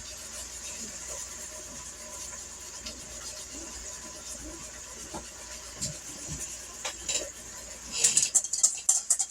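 Chicken and cream sauce sizzling steadily in a hot skillet, with a few scattered knocks. Near the end comes a quick run of clattering dishes and utensils.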